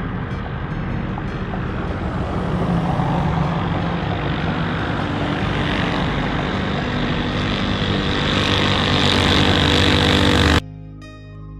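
Tillotson 212 single-cylinder minibike engine with an open header running hard at a steady speed, growing louder toward the end, then cut off abruptly about ten and a half seconds in, with music following.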